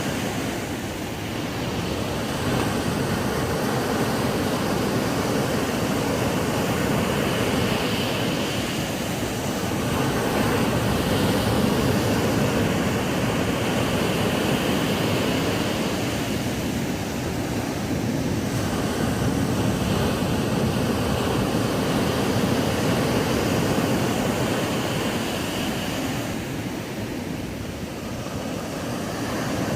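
Ocean surf breaking and washing onto a sandy beach: a steady rushing wash that swells and eases over several seconds, with short lulls between waves.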